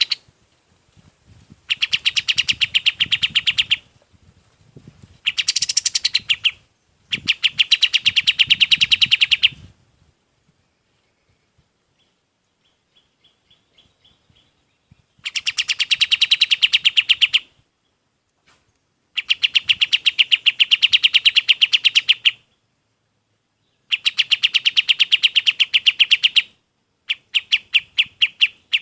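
Kapas tembak songbird calling in fast rattling bursts of evenly repeated sharp notes. Each burst lasts two to three seconds, with short pauses between, about seven times over.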